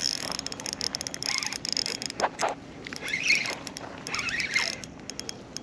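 Fishing reel being cranked in, with rapid irregular clicking and a few short high squeaks.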